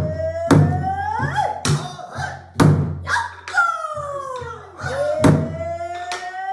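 Pansori singing: one voice holding long, sliding notes that fall and then rise, accompanied by sharp strikes on a buk barrel drum, on the head and the wooden rim, about once or twice a second.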